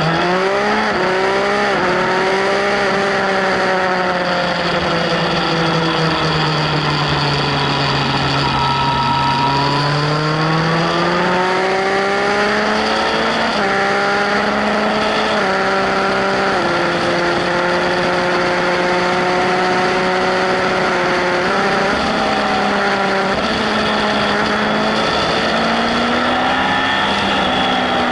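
Yamaha Fazer 1000 inline-four motorcycle engine under load on track, pitch rising steeply as it accelerates at the start, falling away over several seconds, then climbing again, with sudden steps in pitch at gear changes. A steady rush of wind noise runs underneath.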